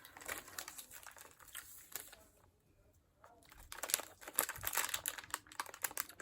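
Crinkly plastic snack wrappers rustling as packaged snacks are handled, with a brief quiet pause about halfway before the crinkling picks up again.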